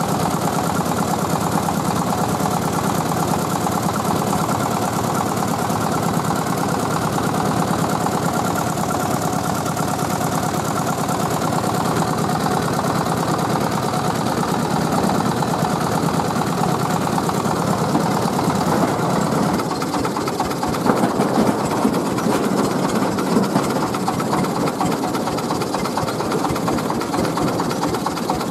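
Tiger 24 PK diesel engine of a mobile rice-milling machine running steadily. About two-thirds of the way through it turns rougher and more uneven, with louder irregular peaks.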